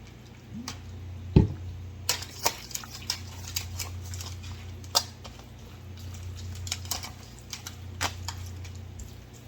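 Shredded chicken being stirred into teriyaki sauce in a foil bowl: scattered clicks and taps with wet squishing, and one louder thump about one and a half seconds in, over a steady low hum.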